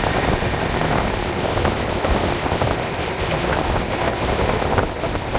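A moving express train, heard from on board: a steady rushing of wind and rail noise with rapid rattling and clicking. The noise gets brighter and louder right at the start.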